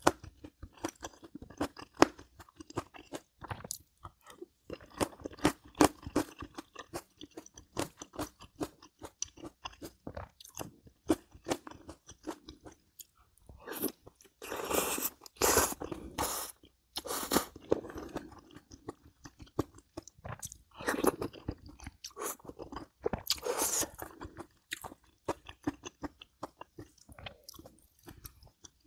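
Close-miked chewing of crunchy food: a dense run of crisp crunches and bites, with a few longer, louder stretches of mouth noise around the middle and a little later.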